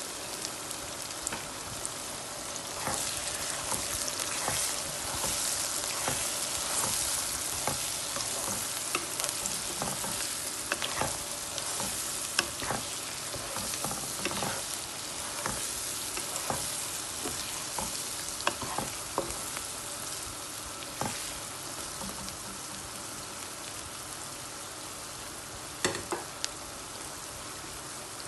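Onions, tomatoes and green chillies sizzling in hot oil in a wok as the masala is fried, stirred with a slotted spatula that scrapes and taps against the pan. The sizzle is louder through the first half, and a couple of sharper knocks of the spatula come near the end.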